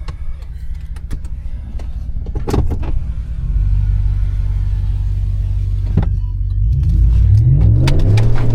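Truck engine running at low revs, growing louder about three and a half seconds in, then revving up and down near the end as it pushes into deep mud. A few sharp knocks come over it.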